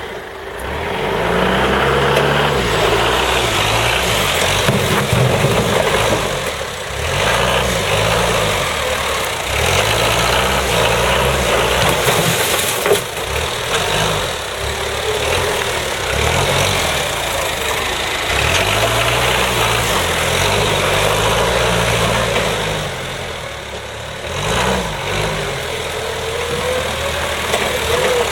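Diesel engine of a working machine running, its revs rising and falling several times as it is worked.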